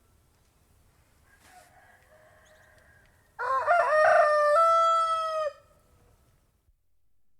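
Domestic rooster crowing once, loudly, for about two seconds starting halfway through, with a fainter crow just before it.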